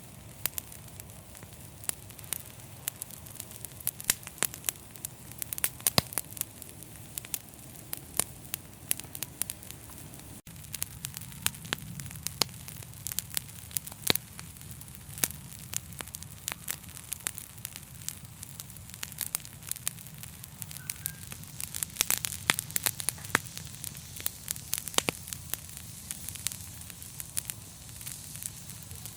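Wood fire burning in a fireplace: irregular sharp crackles and pops, some loud, over a low, steady rumble of flames.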